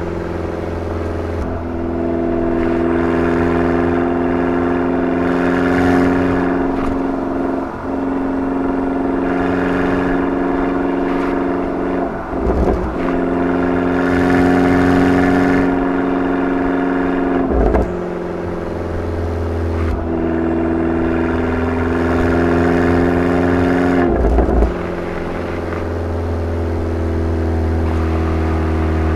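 Abarth 500's turbocharged 1.4-litre four-cylinder engine and exhaust pulling steadily under way, broken about four times by brief dips in the note.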